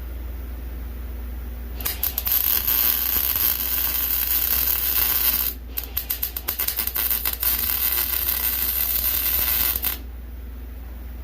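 Electric welding arc crackling steadily for about four seconds, stopping briefly, then sputtering through several short restarts before it runs steadily again and cuts off near the end.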